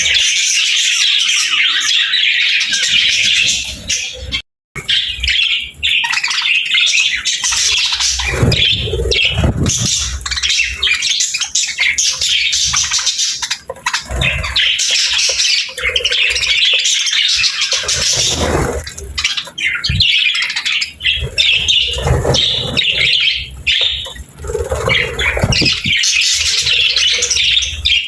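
Budgerigars chattering nonstop: a dense jumble of fast chirps, warbles and squawks from several birds. The sound cuts out completely for a split second about four and a half seconds in.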